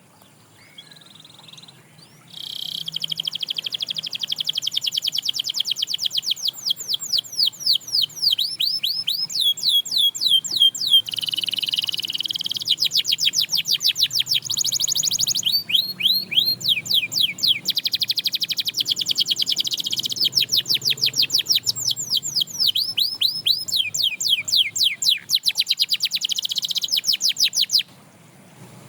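Domestic canary singing a long, unbroken song of rapid trills and quickly repeated sweeping notes, changing from phrase to phrase. It starts about two seconds in and stops shortly before the end.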